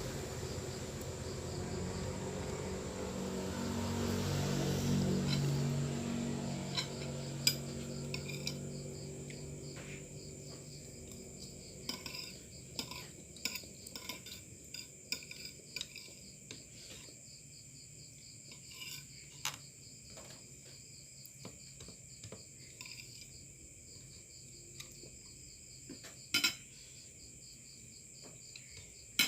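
Spoon and fork clinking and scraping on a plate during eating, in scattered sharp clicks. Crickets or other insects chirp steadily, and a low drone swells and fades in the first several seconds.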